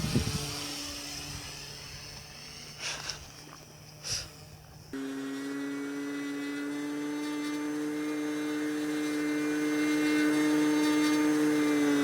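RC plane's electric motor whining at a steady pitch, slowly getting louder and dipping slightly in pitch near the end. The whine starts abruptly about five seconds in, after a quieter stretch with a faint hum and two short noises.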